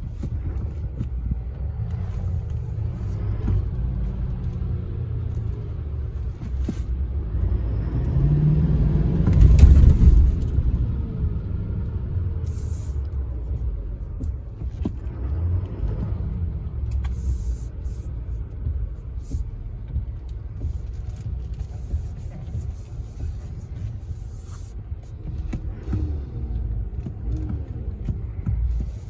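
Low, steady motor-vehicle rumble that swells louder about eight to ten seconds in, then settles back.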